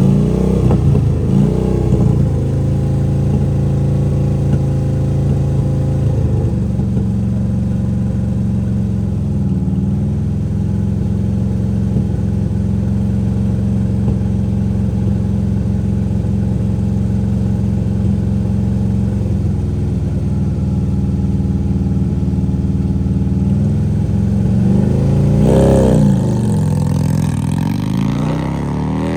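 Drag-race car engines running loud and steady, their pitch sweeping up and down a few times: near the start, around ten seconds in, and again near the end.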